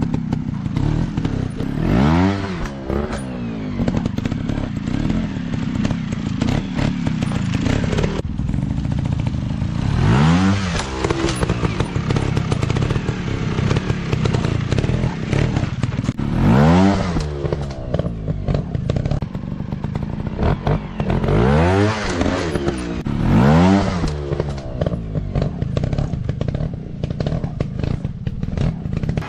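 150cc dirt bike engines revving, the pitch climbing and falling again in repeated bursts of throttle between steadier running, with some clattering and thumps.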